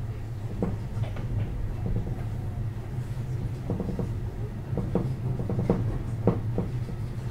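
Keio 7000-series electric train heard from inside a passenger car while running: a steady low rumble, with the wheels clicking over rail joints at irregular intervals, several times in quick pairs.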